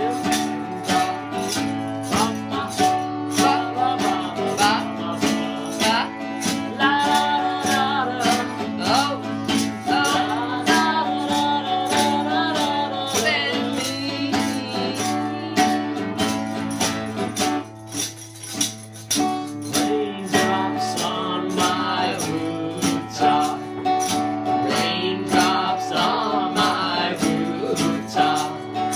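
Acoustic guitar strummed in a steady rhythm, with a voice singing a melody over it. There is a short drop-out a little past the middle.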